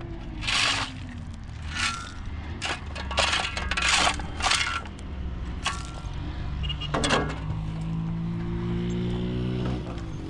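Hard objects knocking and scraping together in a string of sharp clattering hits, some with a brief metallic ring, over a steady low motor hum that rises slightly in pitch in the second half and drops near the end.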